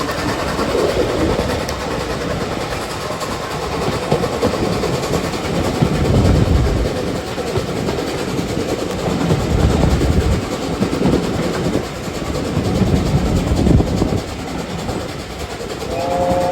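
Steam-hauled train running, a continuous rumble with heavier low surges every few seconds. Near the end the A4 locomotive Sir Nigel Gresley's chime whistle starts, a held chord of three steady notes.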